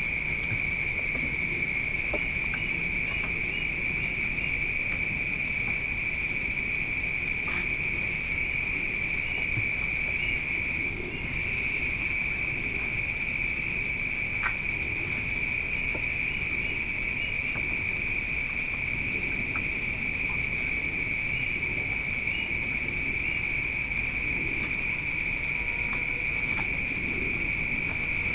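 Night insects, crickets among them, trilling steadily in two continuous high-pitched bands, with a few faint clicks.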